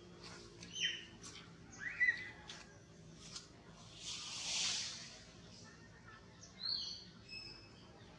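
Forest birds chirping: a few short call notes about a second apart early on, a brief hiss in the middle, and a few higher whistled notes near the end.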